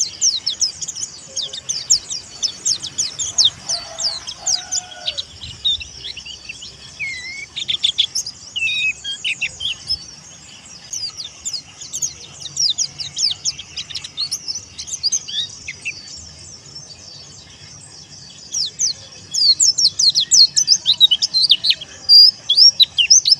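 White-eye (pleci, Zosterops) chirping: fast runs of thin, high chirps in bursts, with a short lull past the middle before a busy run near the end.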